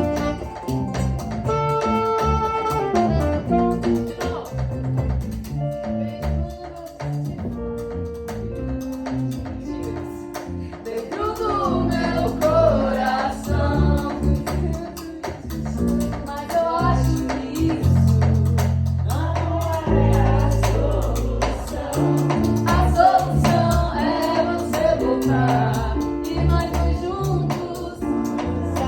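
Live band playing a song with drums and melodic instruments; a singing voice comes in about a third of the way through and carries on over the band.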